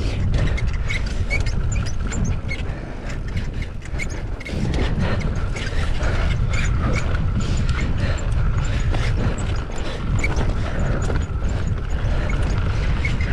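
Mountain bike rolling down a dirt trail: a steady rumble of tyres and wind on the helmet camera's microphone, with the chain and frame clicking and rattling over bumps. Short bird chirps sound over it again and again.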